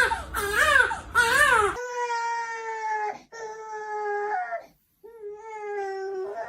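Loud wailing cries, each rising and falling in pitch, repeated several times, then cut off abruptly. Three long, steady held tones follow, each dipping slightly at its end.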